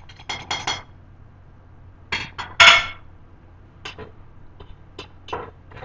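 Sharp clinks and knocks of metal utensils and containers against a cooking pot as spices are put into oil, several in quick succession, with the loudest knock a little before the middle.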